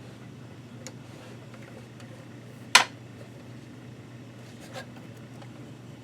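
A single sharp click about three seconds in, with a couple of faint ticks around it, over a steady low hum: parts and tools being handled while a sewing machine is taken apart.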